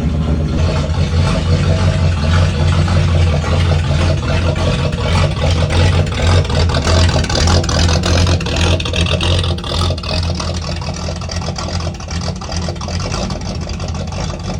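Straight-piped 5.7-litre V8 with a stage 1 cam and shorty headers idling loud and uneven, still warming after a cold start in freezing weather. A hiss swells for a few seconds midway.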